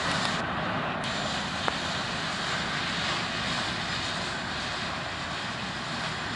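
Freight train cars rolling away on the rails: a steady rumbling rush of wheels on track that slowly fades as the train recedes.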